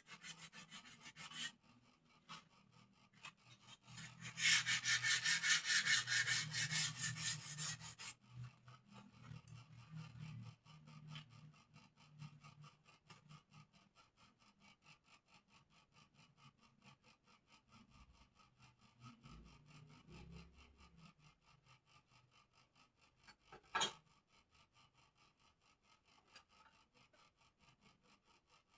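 Wood of a bird cage being smoothed by hand: rhythmic rubbing and rasping strokes. They are loudest for a burst about four seconds in and then go on faintly. There is a single sharp knock near the end.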